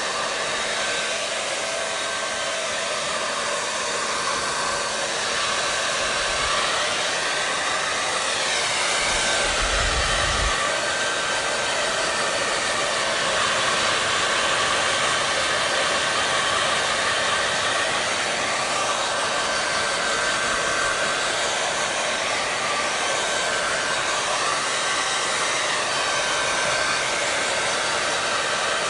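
Blow dryer running steadily, a dense rush of air with a faint motor whine held on a few steady tones, wavering slightly now and then. A brief low thump about ten seconds in.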